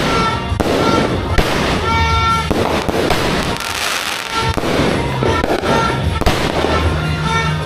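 Dragon Fireworks "Dragon's Stellar Saga" fireworks cake firing: a rapid, continuous series of shots and bursts, with crackling between them.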